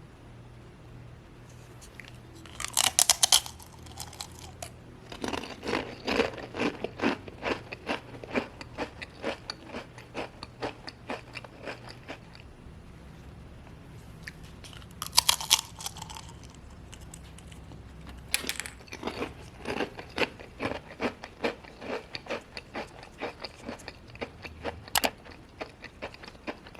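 Someone biting into a crisp fried kuih loyang (beehive cookie) and chewing it. A sharp crackling bite comes first, then a steady run of crunches at about two a second. This happens twice, with more crunching near the end.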